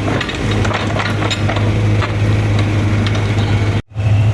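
Excavator's diesel engine running steadily, with scattered knocks and clanks over it. The sound cuts out for a moment near the end.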